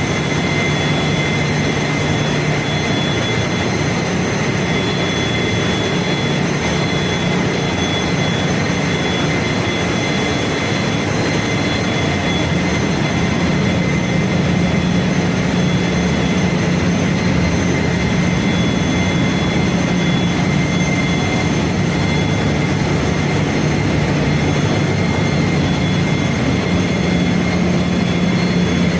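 Loud, steady drone of engine-room machinery running, a low hum under a wash of noise with several steady high whines on top. The low hum shifts slightly in pitch a couple of times.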